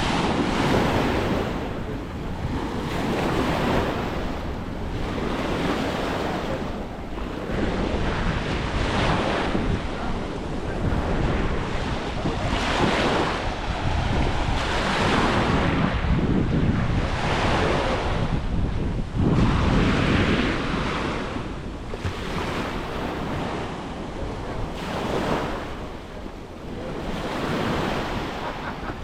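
Surf breaking and washing on a beach in repeated swells, with wind buffeting the microphone.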